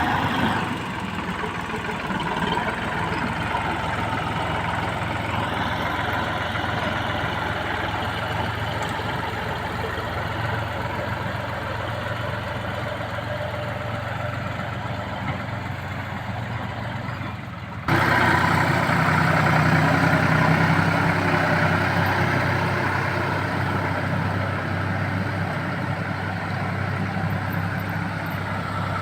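Massey Ferguson MF4707 tractor's diesel engine running steadily at idle. The sound jumps suddenly louder about eighteen seconds in.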